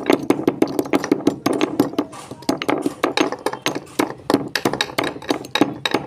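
Slate pencils being bitten and chewed: a fast, irregular run of sharp, crisp crunches, several a second.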